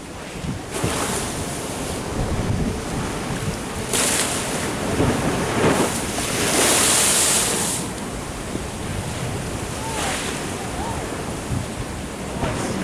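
Ocean waves washing and surging, with two stronger rushes of spray-like hiss, one about four seconds in and a longer one about six to eight seconds in. Wind buffets the microphone throughout.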